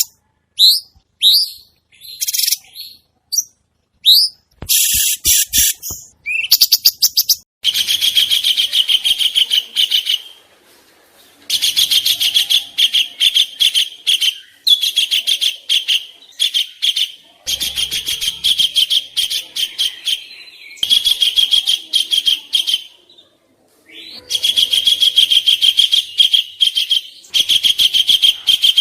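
Songbird song of the kind used as training 'masteran' for competition birds: a few short, downward-sweeping chirps, then long phrases of rapid, harsh chattering trills with short pauses between them.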